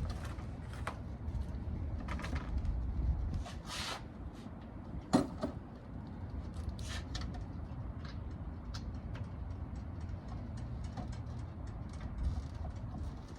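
Scattered metallic clicks and knocks of hand tools working on a car, over a low rumble that is stronger for the first few seconds; one sharp knock about five seconds in.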